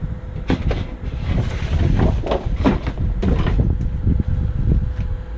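Hands rummaging through cardboard boxes and trash in a dumpster: a run of irregular rustles, knocks and scrapes over a steady low rumble.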